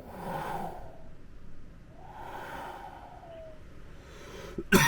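Wind gusting past a car's partly open window in two long swells, like waves breaking, with a brief falling whistle near the end of the second.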